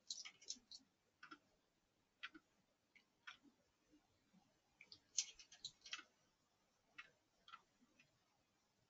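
Faint, irregular clicks and taps, some single and some in quick clusters near the start and about five to six seconds in.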